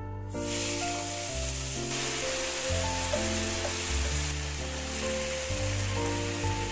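Seasoned chwinamul (aster greens) hitting a well-heated frying pan and sizzling as it is stir-fried with chopsticks. The sizzle starts suddenly just after the beginning and holds loud and steady, under light background music.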